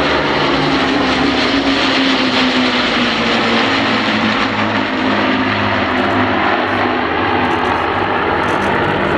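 Piston-engined propeller aircraft flying past, a loud steady drone whose pitch drifts slowly lower.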